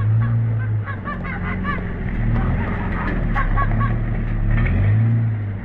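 A motor running with a steady low hum that shifts pitch a few times, with geese honking in quick series over it.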